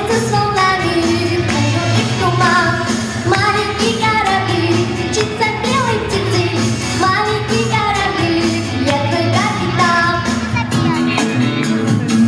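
A girl singing a pop song in Russian over a backing track with a steady beat.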